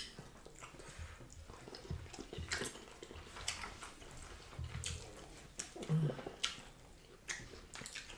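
Quiet wet eating sounds: chewing and lip smacks, with small clicks and squelches as fingers pull fish apart in the soup. A brief low hum from a mouth about six seconds in.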